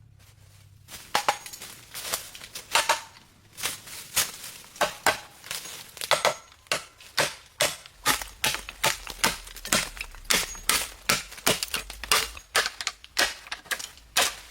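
Repeated sharp chopping strikes, about two a second, starting about a second in and going on steadily.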